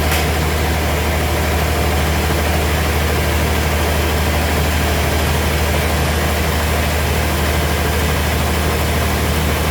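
Sawmill machinery running with a steady low hum and drone that holds level throughout, with a short click right at the start.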